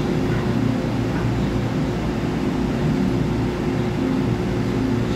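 Steady interior hum of an EMU3000 electric train's onboard equipment heard from the vestibule, with two steady low tones over an even rumble.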